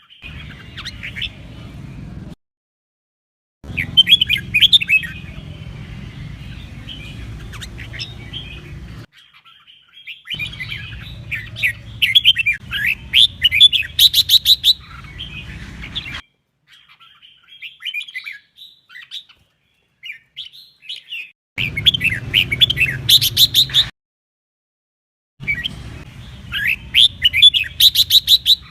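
Red-whiskered bulbul singing, a loud run of quick rising and falling whistled phrases over a low hum. The song comes in several stretches that break off abruptly into silence between them.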